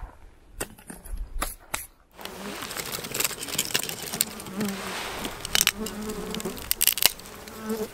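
A flying insect buzzing close by in short stretches, over a steady hiss with scattered clicks. The hiss starts suddenly about two seconds in.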